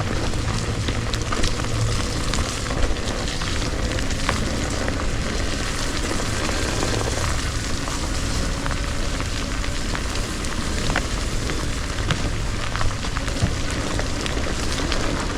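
Steady crackling hiss with many scattered sharp clicks and ticks, from an electric unicycle's wheel working over a wet, sandy trail.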